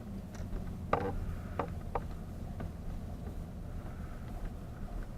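A motor running steadily with a low drone, with a few sharp clicks about one and two seconds in.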